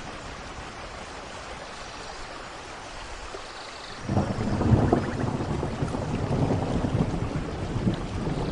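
Steady tropical rain with a few faint bird calls. About four seconds in, a loud, low rumble of thunder breaks in and rolls on.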